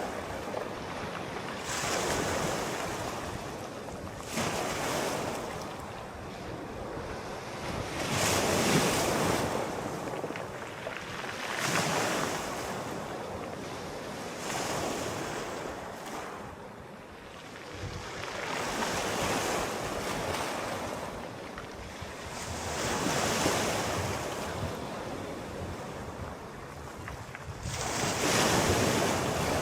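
Sea waves breaking and washing up the shore, each one swelling and falling away every few seconds.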